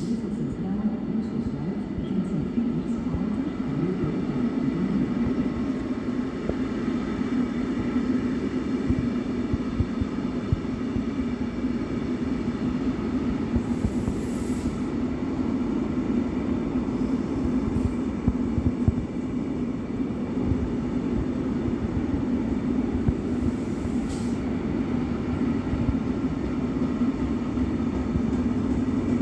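NMBS/SNCB passenger train of double-deck coaches rolling past a station platform: a steady rumble of wheels on rails with a low hum. Two brief high hisses break in, about halfway through and again later.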